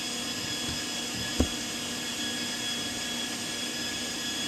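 Electric kitchen appliance motor running steadily with a hum and whine as meat is being prepared, with one sharp knock about a second and a half in.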